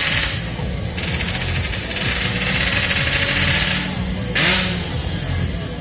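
A 130cc automatic scooter's small engine running steadily, with hiss over a low pulse. The level dips twice, and a short louder surge with a slight rise in pitch comes about four and a half seconds in.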